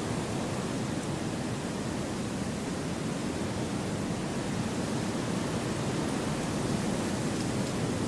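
Gentle wind blowing through forest trees: a steady, even hiss with no gusts or breaks.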